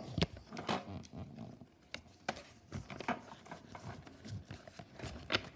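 Foil booster pack wrapper crinkling and trading cards being handled, in a series of short, irregular rustles.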